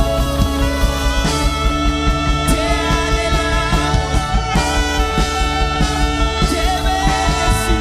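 Church worship band music with singing: held chords over a steady beat.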